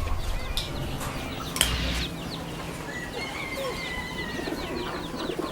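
A room of birds chirping and calling in many short notes, with a held whistled note about three seconds in. A sharp click about a second and a half in.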